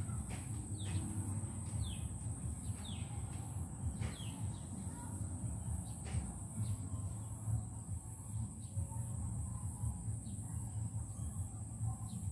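Birds calling in the open countryside: a series of short downward-sliding chirps, most of them in the first few seconds, over a steady high insect buzz and a low rumble of background noise.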